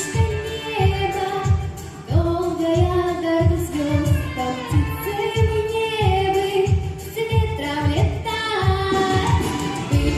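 A pop song: a voice singing a melody over a steady beat of about two beats a second.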